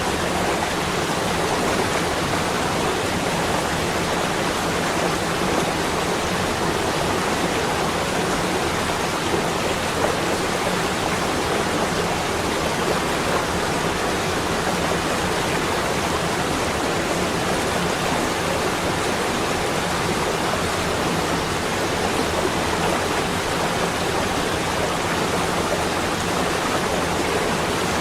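Steady, even rushing noise with no breaks or distinct events, a continuous ambience track.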